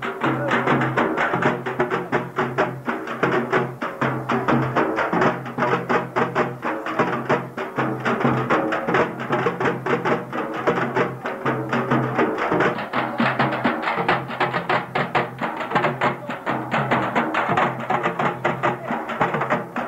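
Percussion-driven music: fast, dense drumming without pause over a steady low tone.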